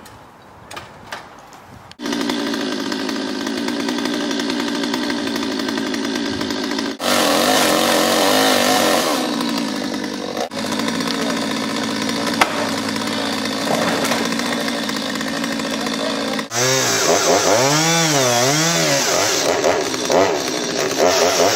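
Chainsaw running, starting about two seconds in and holding a steady speed, then revved up and down over and over near the end.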